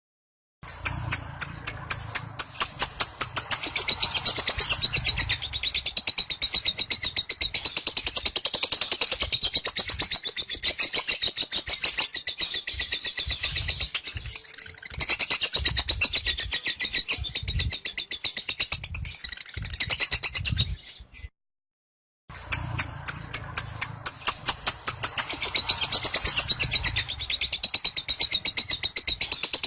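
Lovebird singing its long 'ngekek' song, an unbroken run of rapid, high chattering notes. About two-thirds of the way through it breaks off completely for about a second, then the chatter starts again.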